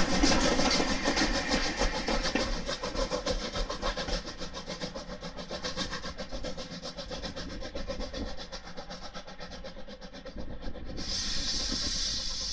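Railway locomotive running with a fast, even beat that fades away over about ten seconds; about eleven seconds in, a steam hiss starts suddenly.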